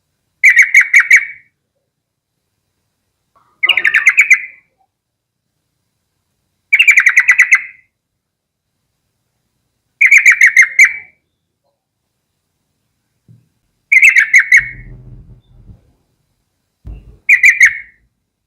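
Yellow-vented bulbul calling: six short bursts, each a quick run of chattering notes, about one every three seconds.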